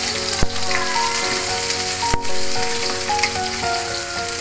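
Sliced shallots, lemongrass and garlic sizzling in a wok as a wooden spatula stirs them, with two sharp knocks of the spatula against the wok, about half a second in and about two seconds in.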